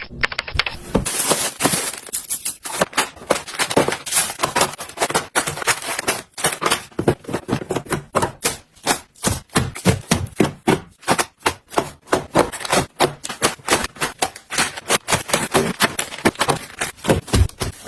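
Dense, rapid clicking and clacking, several sharp knocks a second, from food items and containers being handled and set down while a refrigerator is restocked.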